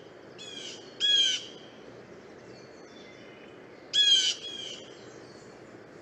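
Blue jay giving its 'jay' call: four short calls in two pairs about three seconds apart, over a faint steady background hiss.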